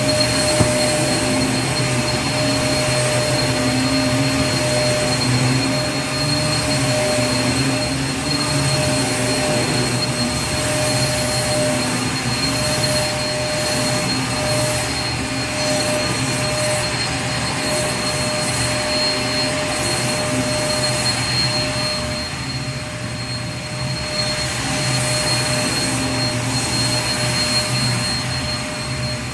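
Vacuum cleaner running continuously: a steady rushing motor drone with a constant high whine over it.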